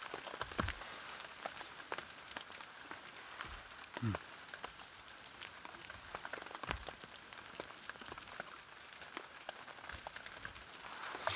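Rain pattering steadily on a tarp overhead, with louder single drops ticking sharply now and then. A brief voiced hum falls in pitch about four seconds in.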